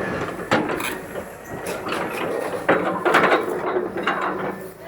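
Several sharp knocks and clatters: one about half a second in, and a cluster of louder ones near the middle, over a steady noisy background.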